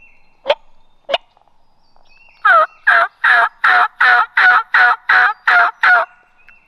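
Turkey call worked to imitate a hen: two sharp clucks, then a run of nine yelps, each falling in pitch, loud and close to the microphone.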